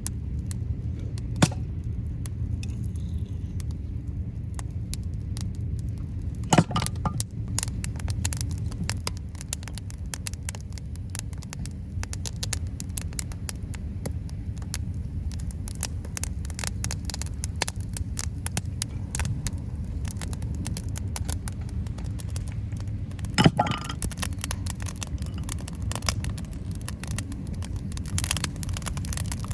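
Wood campfire crackling and popping, many small sharp cracks over a steady low rumble. Two louder knocks stand out, one about a quarter of the way through and one about four-fifths through.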